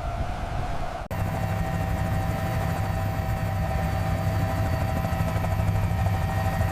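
A siren-like tone cuts off suddenly about a second in. A steady engine drone takes over, with a low hum and a held high whine, and runs without change.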